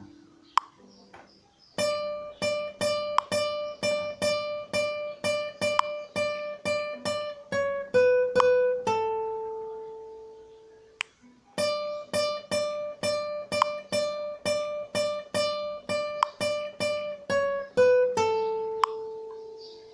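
Guitar picking a melody one note at a time, many notes repeated on the same pitch, in two phrases. Each phrase ends on a long held note that rings out and fades, with a short pause between them.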